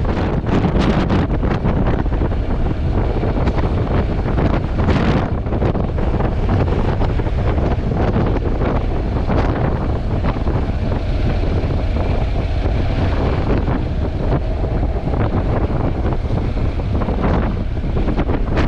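Heavy wind buffeting on a GoPro 8 Black's built-in microphone while riding a Honda NC750X motorcycle at speed: a loud, steady low rumble that covers everything else.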